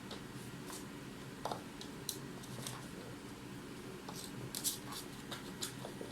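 Bichon Havanese puppy chewing and batting at a carrot: irregular small clicks and scrapes, a couple of dozen in a few seconds.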